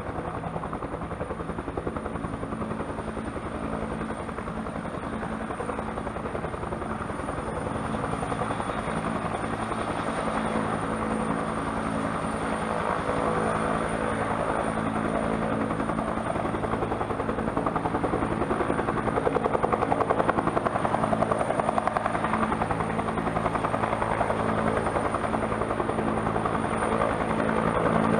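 Turbine helicopter running, with a rapid steady rotor beat and a thin high whine, growing gradually louder.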